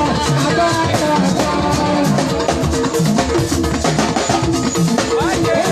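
Gospel band music: a drum-kit beat driving under melodic instrument lines, with no words.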